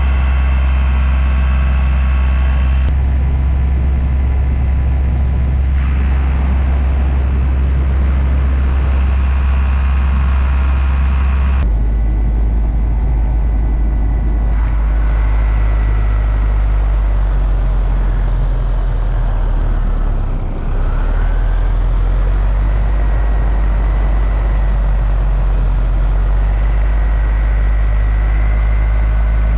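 Paramotor engine and propeller running steadily at high power, with a short dip in engine speed about twenty seconds in. The tone shifts abruptly twice in the first half.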